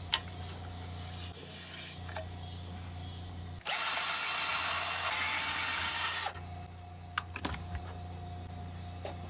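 Ratchet wrench with a 7/16 socket spinning a muffler bolt loose off a small mower engine: an even, dense run of pawl clicks lasting nearly three seconds, starting about three and a half seconds in. A few light metal clicks and taps come before and after.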